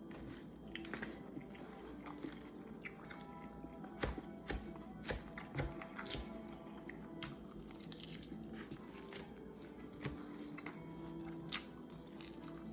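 A person chewing a salad with crunching bites, several sharp crunches coming close together in the middle, over soft background music.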